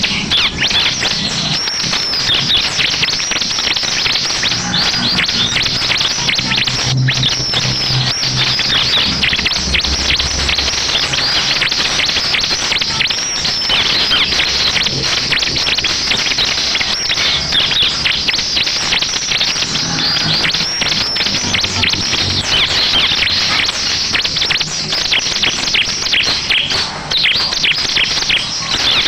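Ciblek (bar-winged prinia) song: a dense, unbroken stream of rapid high chirps and short trills, used as a lure call to set other ciblek singing.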